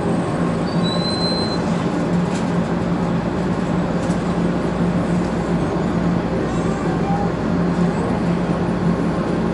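Shinkansen train running noise heard from inside the carriage vestibule: a steady rumble with a constant low hum, and a brief high squeal about a second in.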